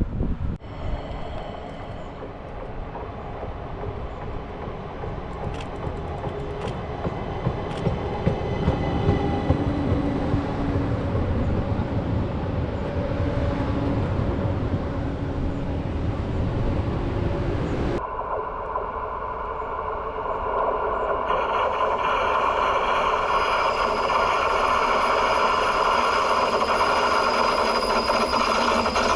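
An ÖBB Talent electric multiple unit rumbling along the tracks, growing steadily louder. About two-thirds of the way in the sound cuts abruptly to a steadier, higher-pitched hiss of rail noise.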